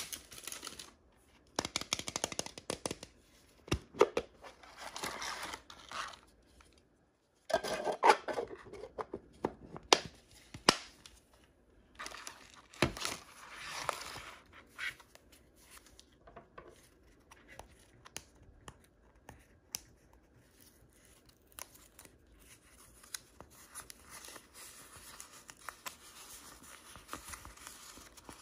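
Blind-bag and Kinder egg packaging being torn open by hand, crinkly foil and plastic tearing and rustling in irregular bursts with sharp crackles, busiest in the first half and fainter, scattered handling later.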